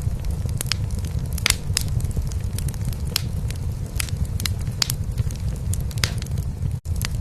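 A cat purring steadily close up, a continuous low rumble, under a wood fire crackling in a fireplace with irregular sharp pops. A split-second dropout near the end.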